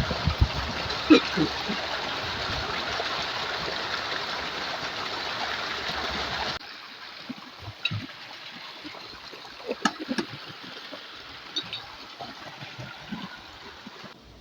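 River water flowing steadily, with a few scattered short knocks. The water is loud at first, then drops suddenly to a quieter level a little past halfway.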